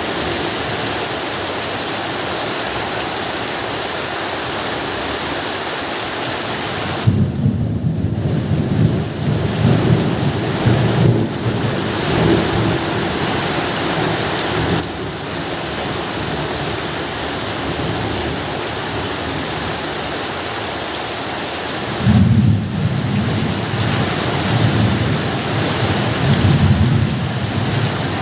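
Steady heavy rain with thunder. A long roll of thunder comes in about a quarter of the way through and rumbles for several seconds, and a second roll follows near the end.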